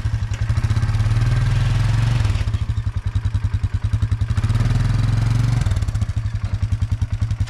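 Engine running at low speed with a steady, even pulsing beat; its note shifts slightly about two seconds in and again near six seconds.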